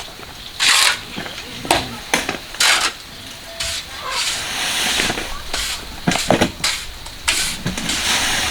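Irregular gritty scraping strokes, a fraction of a second each, typical of a shovel or tool working through concrete or gravel, with faint voices.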